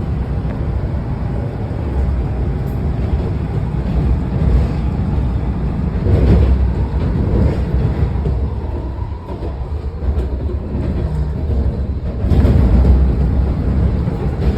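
Washington Metro train running along the track, a steady low rumble of wheels and car that swells louder about six seconds in and again about twelve seconds in.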